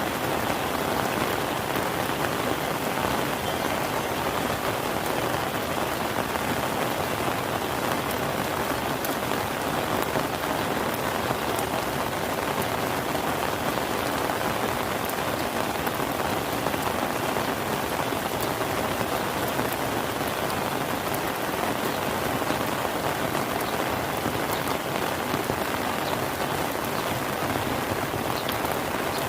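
Steady rain falling on surfaces, an even unbroken hiss, with individual drops ticking now and then.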